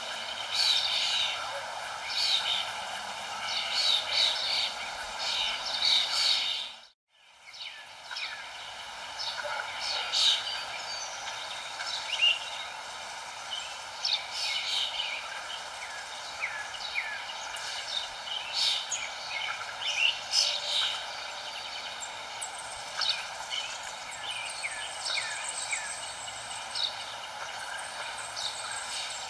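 Many birds chirping and calling in quick, short notes over a steady background hiss. The sound dips out almost to silence for a moment about seven seconds in, then returns.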